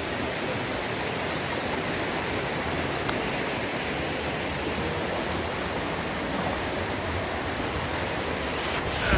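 Heavy rain falling: a steady, even rush of water.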